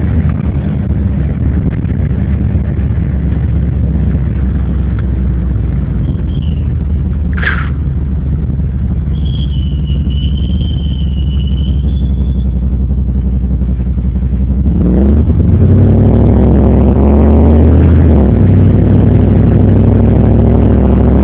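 1991 Chevrolet Caprice Classic's 5.0 V8 heard from inside the cabin while driving: a steady low rumble, then about 15 seconds in the engine is pushed harder, growing louder with its note rising.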